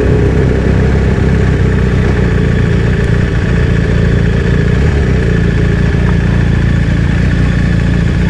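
BMW GS motorcycle's engine running steadily at low speed as the bike rolls along, heard from the rider's seat.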